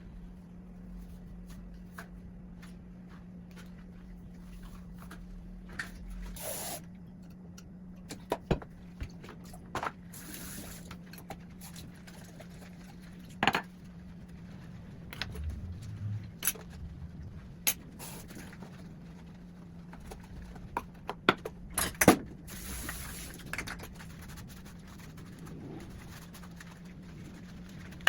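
Kitchen work: dishes and utensils clinking and knocking now and then, with a few short spells of running water, over a steady low hum.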